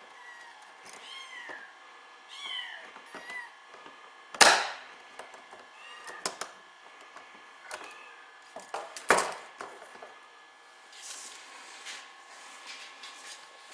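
Small kitten meowing repeatedly in short, high, falling cries. Two sharp cracks, one about four seconds in and one about nine seconds in, are louder than the meows.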